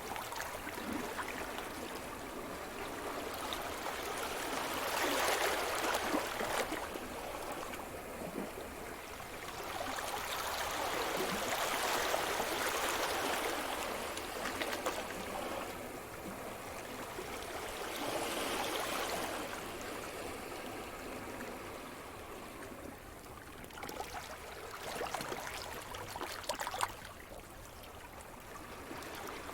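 Sea surf: waves breaking and washing up the shore, swelling and ebbing about every six to seven seconds.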